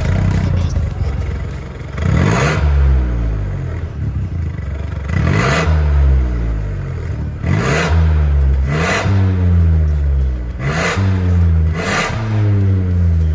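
Ford Focus 1.5 turbo three-cylinder sounding through an MS-R valved cat-back exhaust, revved six times. Each rev comes with a sharp rushing burst of noise, and the engine's pitch falls away after it.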